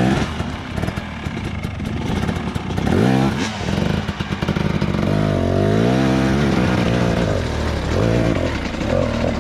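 Dirt bike engine running under throttle, its pitch rising and falling repeatedly as it revs up and eases off, cutting in suddenly at the start.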